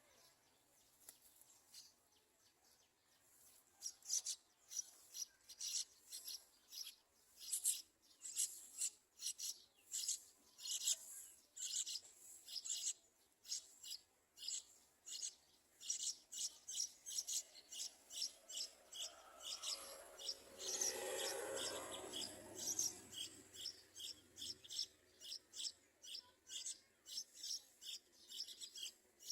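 Yellow-vented bulbul nestlings begging for food: short, high-pitched rasping calls repeated about twice a second. About twenty seconds in there is a louder, lower rustling for a few seconds.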